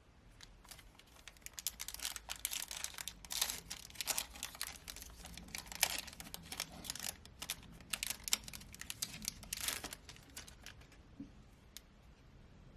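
Foil wrapper of a Topps trading card pack being torn open and crinkled: a dense run of crackling that dies down about ten seconds in.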